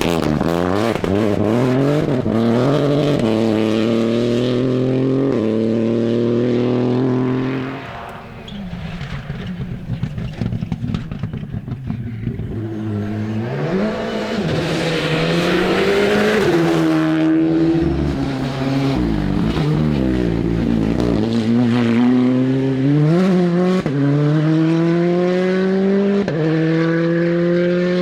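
Rally car engine accelerating hard through the gears, its pitch climbing and dropping back at each upshift. About eight seconds in it lifts off, with a few seconds of irregular exhaust pops and crackles. It then revs up again and pulls up through several more gears near the end.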